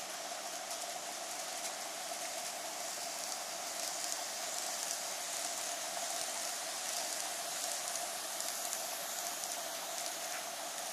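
N-gauge model trains running on the track: a steady rattling hiss of small wheels on rail with a steady motor hum, a little louder from about four seconds in.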